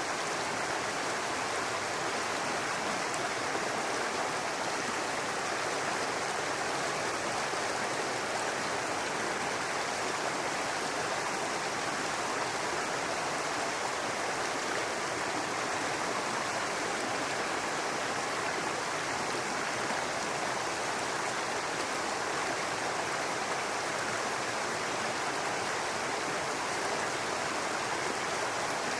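A small brook running and babbling over rocks in a steady rush of water.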